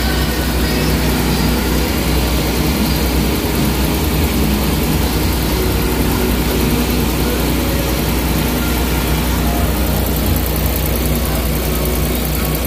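Suzuki minivan's 660 cc three-cylinder engine idling steadily, its idle speed holding without dipping: the idle vibration and stalling fault has been fixed.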